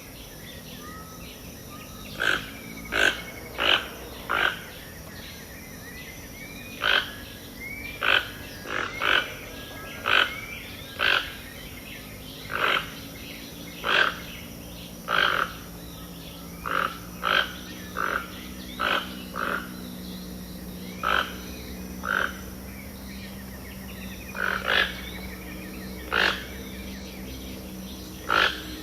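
Pantanal wildlife at dawn: a short, loud, rough call repeats about once every one to two seconds over softer gliding bird chirps and a steady low hum.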